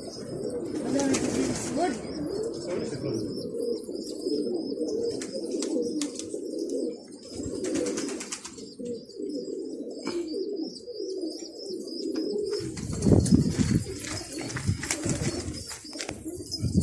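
Many domestic pigeons cooing together in a continuous overlapping chorus, with low rumbling bursts about 13 seconds in and again near the end.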